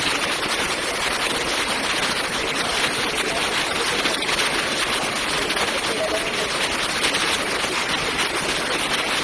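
Fast-flowing floodwater rushing, a dense, steady noise that holds at one level.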